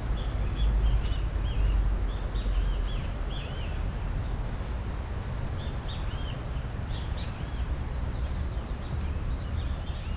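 Small birds chirping in clusters of short, hooked calls over a steady outdoor hiss and a low rumble that is strongest in the first few seconds.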